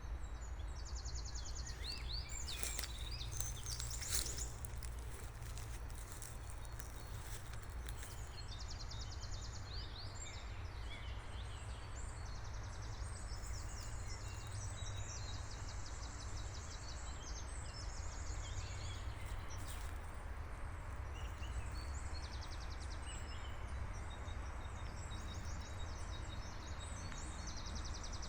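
Forest birdsong: a fast, high trill, about a second long, repeated every few seconds, with other birds chirping between phrases. Under it runs a steady low rumble and hiss.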